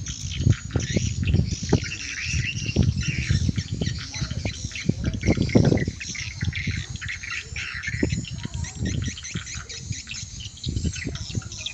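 Many swiftlets twittering densely and without pause, in response to a played swiftlet-call lure. Short, dull low thumps run underneath.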